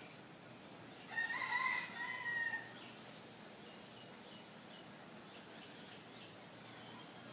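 A single loud, drawn-out bird call about a second in, lasting about a second and a half, with faint bird chirps around it.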